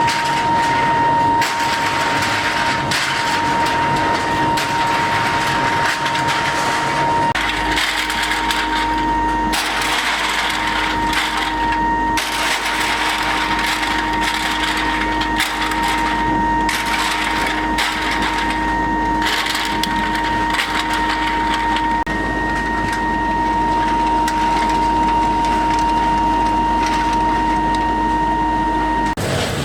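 Workshop machinery running: a steady high motor whine over irregular scraping and knocking, with a low hum joining about seven seconds in.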